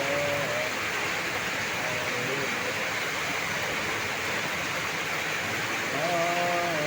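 Heavy rain pouring steadily, a constant even hiss. A man's chanting voice comes in briefly at the start and again near the end.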